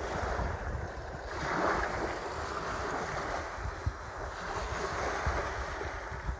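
Sea waves washing in, with wind buffeting the microphone; the surf swells louder about a second and a half in.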